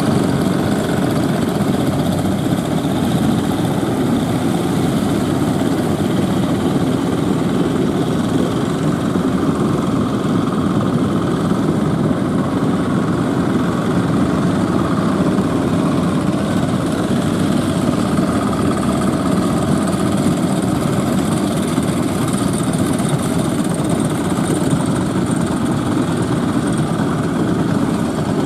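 Fishing boat engine running steadily at an even pitch.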